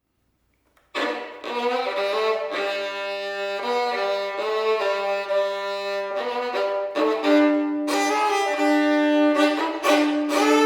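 Fiddle being tuned: open strings bowed two at a time in long held notes, the pairs changing every second or so, starting about a second in.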